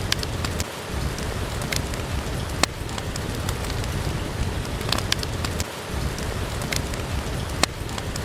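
Steady rain with a low rumble underneath, mixed with scattered sharp crackles and pops from a wood fire in a fireplace.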